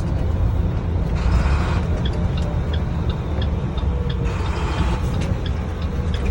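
Cab sound of an International box truck under way: its MaxxForce diesel engine and the road make a steady low rumble, with a rise of hiss twice and faint regular ticks.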